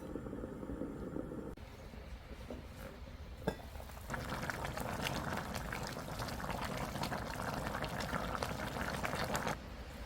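Beef and vegetable stew bubbling in its pot, with a single click about three and a half seconds in. The bubbling grows louder and denser from about four seconds in and drops away shortly before the end.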